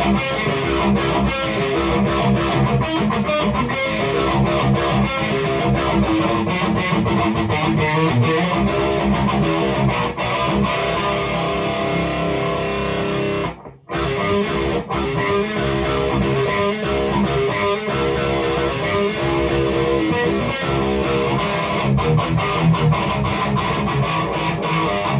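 Distorted electric guitar played through a REVV G3 distortion pedal on its lower-gain setting: a tight, chugging metal riff, with a brief stop about halfway through.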